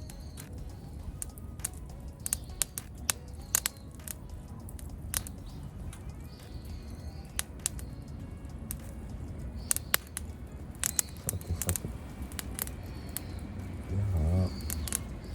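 Small wood fire crackling, with irregular sharp pops and snaps over a low rumble of the flames. Birds chirp faintly in the background.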